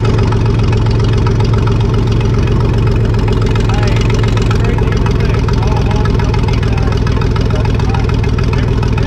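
2005 Chrysler Town and Country minivan's V6 engine idling steadily, heard from inside the gutted cabin.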